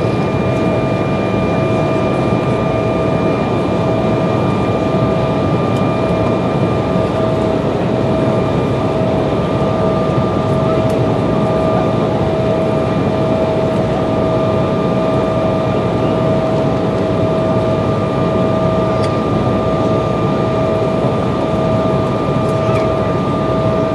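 Jet airliner cabin noise: a steady rush of air and engine noise with a constant hum of several held tones, unchanging in level.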